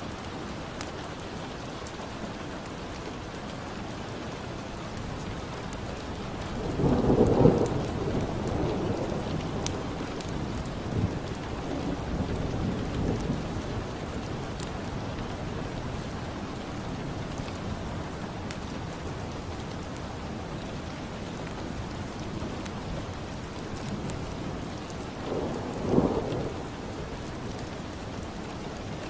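Steady rain falling, with two rolls of thunder, one about seven seconds in that fades out over several seconds and a shorter one near the end. Light crackles of a wood fire come through over the rain.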